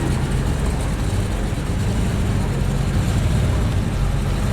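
Mercedes C63's engine running steadily at low speed as the car rolls in, a low even rumble with no revving.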